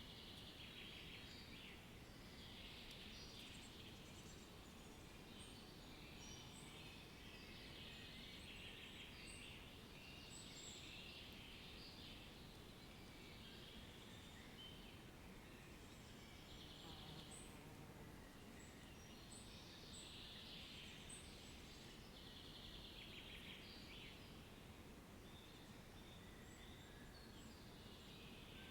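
Faint outdoor nature ambience: birds calling in short high chirps and scratchy trills that come and go, over a low steady background hiss.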